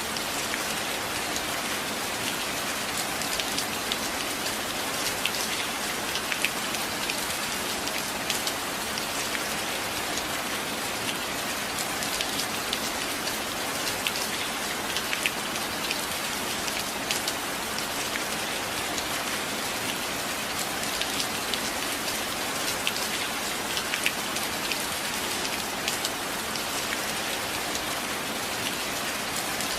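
Steady rainfall, an even hiss with many individual drops ticking close by throughout.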